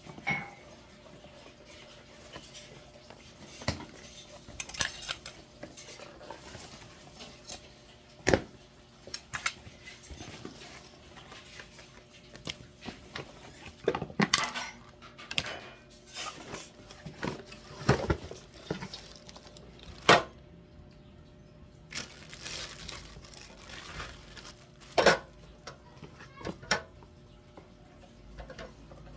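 Irregular knocks, clicks and light metallic clatter from a new welding machine and its parts being unpacked and handled.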